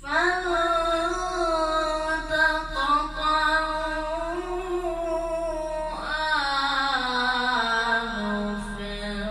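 A male reciter chanting the Quran in the melodic tajwid style, one voice holding long ornamented notes. It enters suddenly after a pause and sinks lower in pitch during the second half.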